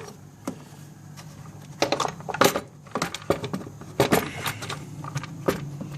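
Scattered sharp clicks and light clinks of plastic and metal scooter parts and tools being handled as the air filter is removed, with two denser clusters of knocks about two and four seconds in.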